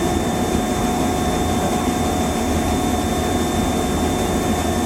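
Steady running noise inside a Hokuso Railway 7260 series electric train carriage: a low rumble with a constant-pitch whine from the train's equipment, unchanging throughout.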